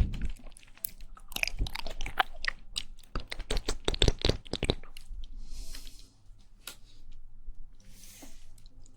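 Close-miked ASMR mouth sounds of jelly being chewed: quick wet clicks and squishes for the first five seconds, then quieter, with two soft airy slurps or breaths near the end.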